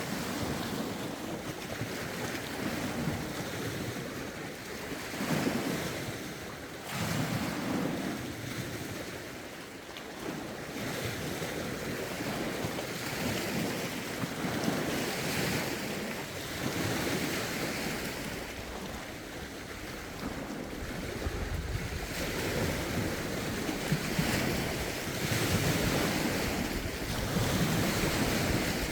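Lake waves washing in and breaking on the shore, swelling and easing every couple of seconds. Gusty wind rumbles on the phone's microphone, heavier in the second half.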